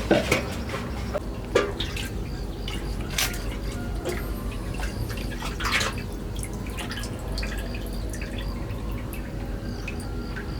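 Liquid dripping and trickling, with scattered small clicks and a few sharper knocks in the first six seconds over a steady low background hum.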